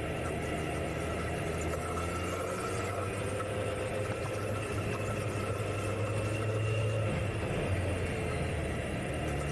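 Kawasaki Z900 inline-four engine running at low road speed. Its pitch rises gently for a few seconds, then drops back about seven and a half seconds in, as the throttle eases off or a gear changes.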